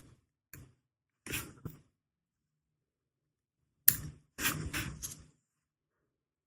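Small tools and watch parts being handled on a workbench during disassembly of a Seiko SKX031: short separate clicks and scrapes, with a sharp click about four seconds in and a brief cluster of taps just after it.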